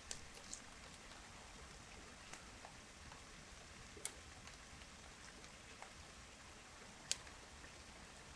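Light rain: a faint steady hiss of rainfall with scattered single drops landing sharply, the loudest about seven seconds in.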